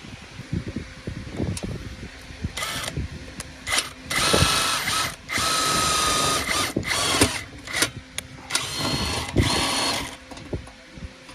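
Small electric power tool run in several short bursts of about a second each, with a steady motor whine in each burst.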